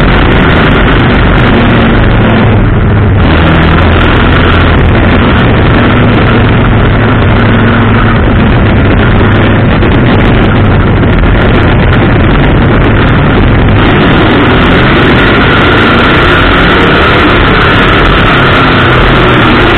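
Engine of a bump-to-pass race car running, recorded very loud and distorted. A steady higher whine comes in more strongly about three-quarters of the way through.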